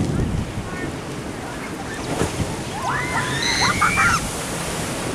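Ocean waves washing against a seawall, with wind buffeting the microphone. A brief pitched sound, from a voice or a bird, comes about three seconds in.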